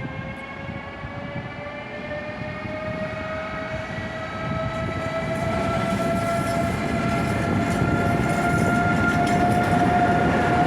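Passenger train with a steady whine that rises slowly in pitch as it grows louder, over a rolling rumble: the traction motors of a train gathering speed.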